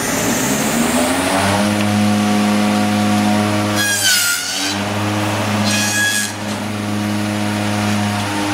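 Holz-Her 1735 milling machine's electric motor spinning up over the first second and a half, then running at a steady hum. The cutter bites into wood about four seconds in and again about six seconds in, the motor note dipping briefly under the load of the test cut.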